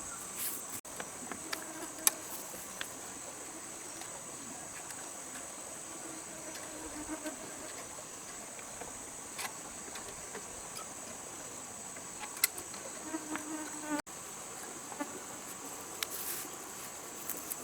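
Steady high-pitched chorus of rainforest insects, with a few sharp clicks or taps on top, the loudest about two seconds in and again near twelve seconds.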